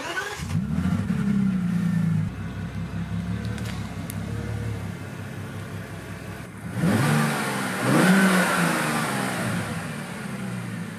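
A 2006 Bentley Continental GT's 6.0-litre W12 twin-turbo engine, fully warmed up, revved twice: a first rev just after the start that falls back a little after 2 s, and a second, louder rev about 7 s in that settles back toward idle.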